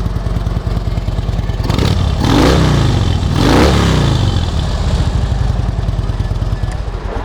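2009 Harley-Davidson Ultra Classic's 96 cubic inch V-twin idling through aftermarket slip-on mufflers, blipped twice, about two and three and a half seconds in, each rev rising and dropping back to idle.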